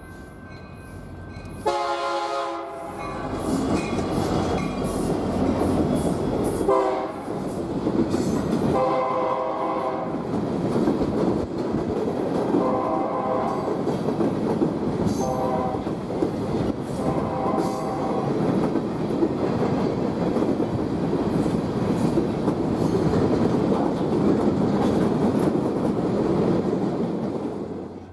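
BNSF freight locomotive's air horn sounding a series of blasts, the last four in the long-long-short-long grade-crossing pattern, over the loud rumble and rail clatter of the passing train. The sound cuts off abruptly near the end.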